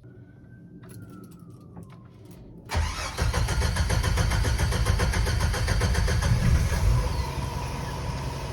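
Jeep engine being started: a faint whine and a few clicks, then about three seconds in the engine catches and runs at a fast idle, easing to a lower idle near the end. This is the start-up after the gas tank replacement.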